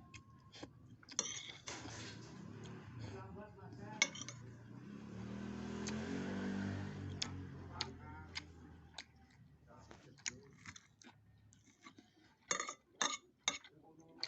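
Spoon and fork clinking and scraping against a bowl of meatball soup with rice while eating, in scattered sharp clinks with a quick run of them near the end. For a couple of seconds midway a voice-like sound is heard.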